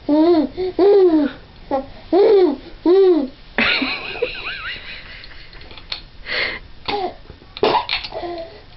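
Baby laughing and babbling in short squeals that rise and fall in pitch, about five in the first three and a half seconds, then a longer, breathier stretch and a few more squeals near the end. A single sharp click sounds about six seconds in.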